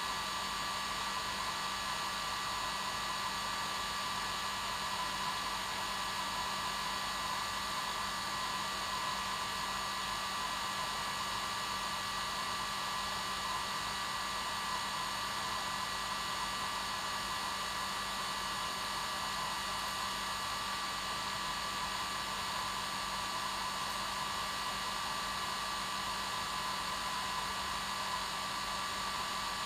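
Hair dryer running steadily: an even blowing hiss with a constant motor whine, unchanging throughout.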